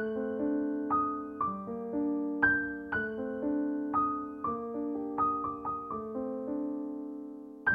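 Background piano music: slow, gentle notes and chords struck a few times a second, each ringing and fading.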